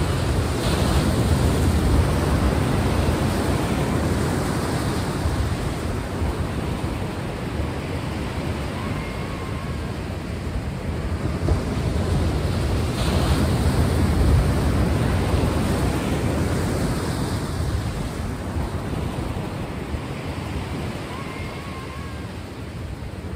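Ocean waves washing ashore, the surf swelling and easing away, with two big swells about twelve seconds apart.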